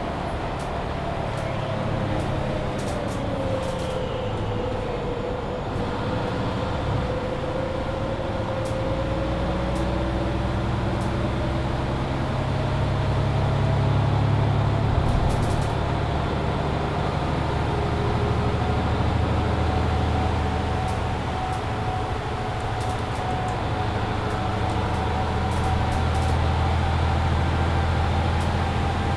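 Mercedes-Benz Citaro C2 hybrid city bus driving, its diesel engine rumbling under a drivetrain whine. The whine sinks for the first few seconds, then rises slowly as the rumble gets heavier and the bus pulls away or picks up speed.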